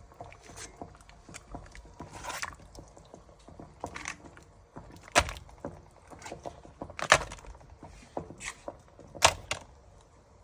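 Handling noises from ration packaging and objects on a table: irregular clicks and knocks, three sharper ones about five, seven and nine seconds in, with short crinkling rustles between.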